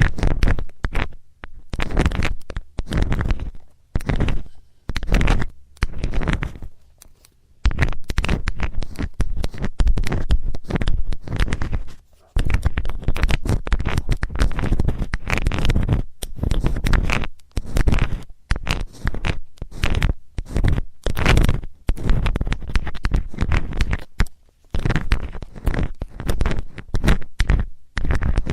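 Close-miked ASMR ear cleaning with a metal tool: scraping and rubbing in quick, irregular strokes, with a deep rumble from the handling, pausing briefly a few times.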